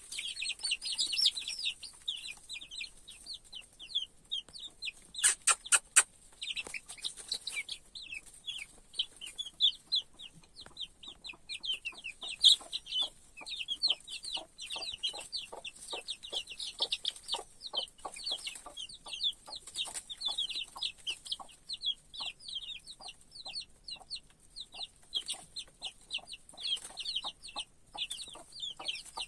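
A crowd of young chicks peeping continuously in rapid, overlapping high chirps. There is a short cluster of sharp clicks or knocks about five to six seconds in.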